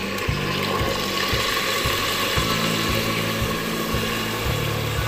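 Chicken frying in oil in a clay handi, sizzling steadily as the thick blended green masala is poured over it, with scattered small crackles and a low steady hum underneath.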